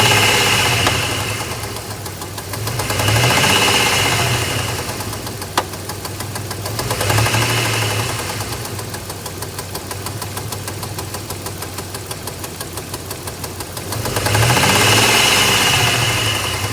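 2002 Dodge Ram 1500's 3.7-litre V6 running and revved up and back down four times, with a weird knocking/popping ticking evenly through it. The owner cannot work out what is causing it. About five and a half seconds in there is one sharp click.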